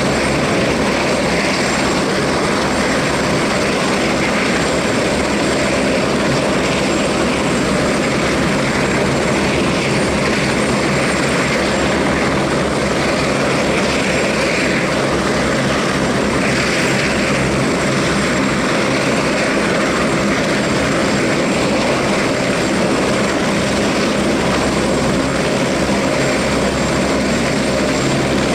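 Airbus Helicopters AS 350 single-turbine helicopter running steadily: engine and main rotor with a continuous loud noise and a steady hum.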